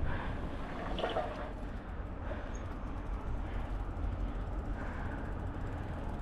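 Bicycle riding heard through an action camera's microphone: a steady low wind rumble on the mic with tyre noise from rolling over a snowy road.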